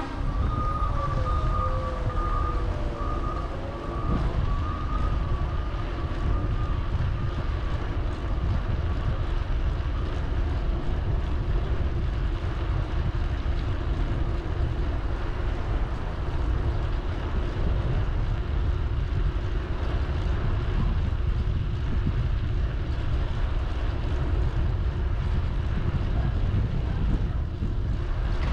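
Steady low wind rumble on the microphone of a moving bicycle, mixed with road and traffic noise. A faint steady tone fades out over the first ten seconds or so.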